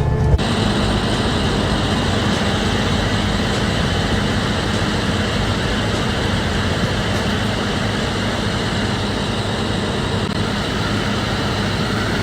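Steady vehicle running noise, an even rumble and hiss that neither rises nor falls, taking over from music about half a second in.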